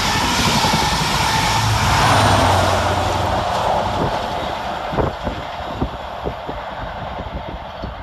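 A Class 43 High Speed Train passing through at speed: loud rushing of the coaches and the low hum of the rear power car's diesel engine, fading as the train draws away. From about halfway, a scatter of sharp knocks rises out of the fading noise.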